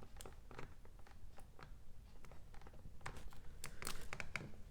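Faint scattered clicks and crinkles, denser near the end, from handling an adhesive-backed armrest cover as it is positioned on a door panel.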